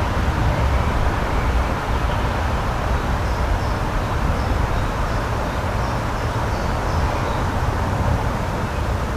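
Outdoor nature ambience: a steady rushing noise, heaviest in the low end, with faint high bird chirps in the middle of the stretch.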